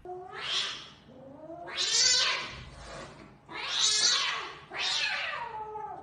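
A cat yowling: four long, drawn-out calls of about a second each, the pitch bending as each one goes.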